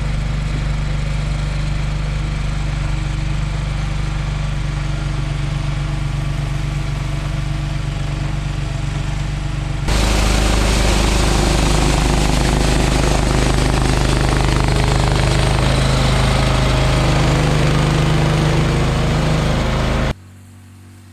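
Late-1980s John Deere 185 lawn tractor's 17-horsepower Kawasaki engine running steadily under load, driving a 38-inch single-stage snowblower. About halfway through the sound jumps suddenly louder with a dense rushing noise added, and near the end it drops off abruptly.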